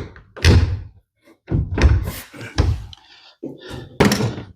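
A run of heavy wooden thunks and knocks, about half a dozen at uneven intervals with the loudest near the end, as a closet door or its wooden parts are pushed and knocked into place.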